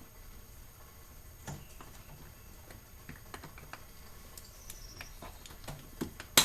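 Small plastic door trim panel on a Lexus SC430 being pried loose: scattered light clicks and squeaks from the plastic tabs, ending in a sharp snap as a clip lets go near the end.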